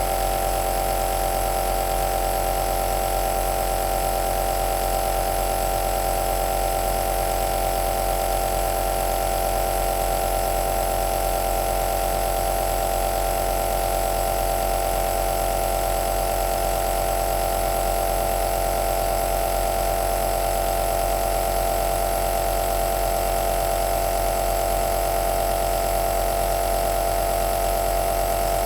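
Home compressor nebulizer (aerosol machine) running steadily: an unchanging motor hum with a strong mid-pitched tone over a hiss of air.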